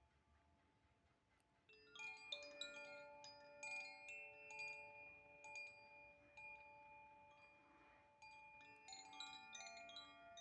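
Wind chime played softly: a few fading tones at first, then about two seconds in many chimes struck together, ringing on in overlapping pitches, and a second cluster of strikes near the end.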